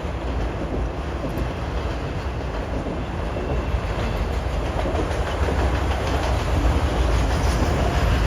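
Freight train of autorack cars rolling past, a steady loud rumble with fine wheel clatter over the rail joints, growing a little louder near the end.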